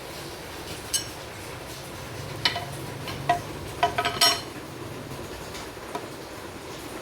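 Metal parts and tools clinking as they are handled on an engine: a few sharp, ringing clinks, with a quick cluster of them about four seconds in.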